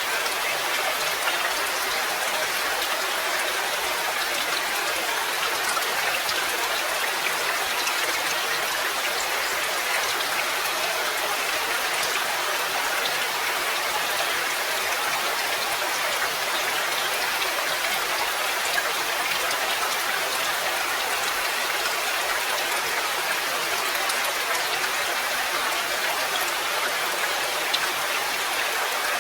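Steady rain falling: an even hiss with faint, scattered drop ticks and no change in intensity.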